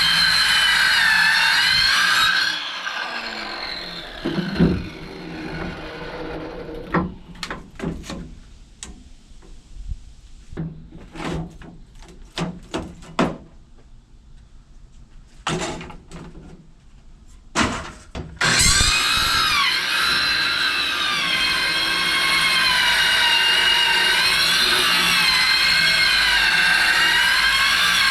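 Truck engine running with its pitch wavering, then winding down and shutting off about two and a half seconds in. Scattered knocks and clunks follow, then the engine comes back suddenly about eighteen seconds in and runs on with its speed rising and falling.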